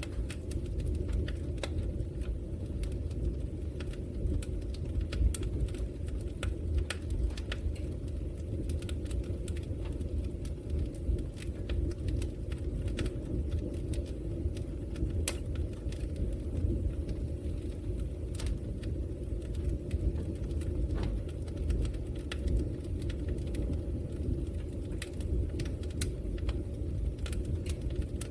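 Wood fire burning in a fireplace: logs crackling with frequent sharp, irregular pops over a steady low rushing of the flames.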